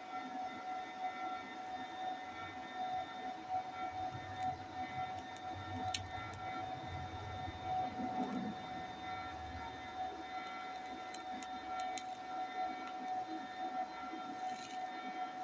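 TIG welding arc on steel, a steady buzzing hum with a few faint ticks.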